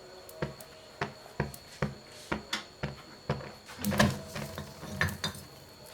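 Repeated clinks and knocks of hard objects being handled, roughly two a second, with a louder clattering thump about four seconds in, over a faint steady high-pitched whine.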